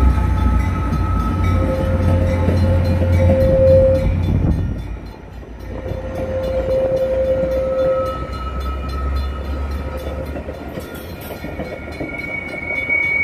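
Metra commuter train passing over a road crossing: the low rumble of the bi-level cars, with single high squeals from the wheels that come and go at different pitches. The crossing bells keep ringing in the background.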